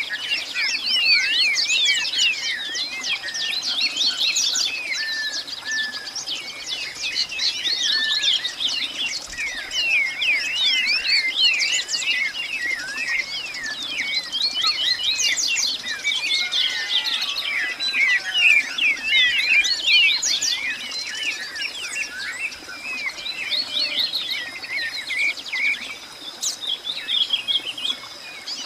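Many birds chirping and calling at once in a dense, continuous chorus of quick, rapid chirps, with an insect's steady high trill running underneath.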